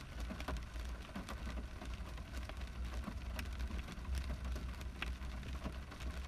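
Steady rain, with many small individual drops tapping at random, over a steady low rumble.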